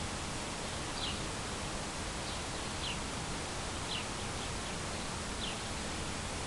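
Small bird chirping: short, high, downward-sliding notes about once a second over a steady outdoor hiss.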